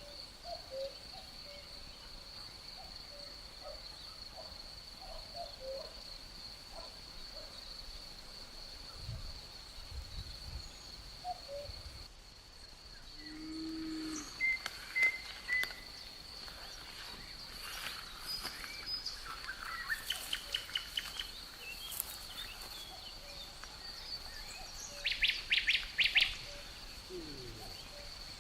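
Outdoor nature ambience: a steady high insect trill with scattered bird chirps and calls. The loudest sound is a quick series of chirps a few seconds before the end.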